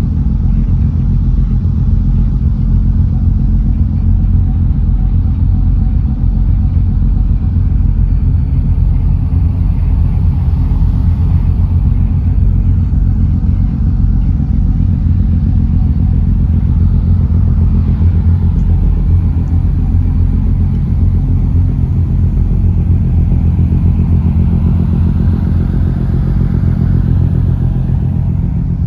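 Engine running steadily at a constant speed, a loud low drone.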